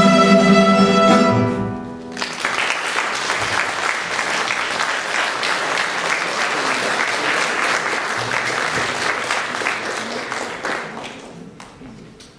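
A violin and guitar duo's final held note ends about two seconds in, followed by audience applause that fades away near the end.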